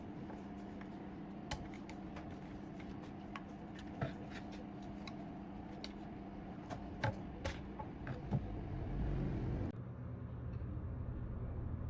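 Scattered light clicks and taps, like small parts or tools being handled, over a steady low hum. The sound changes abruptly about ten seconds in.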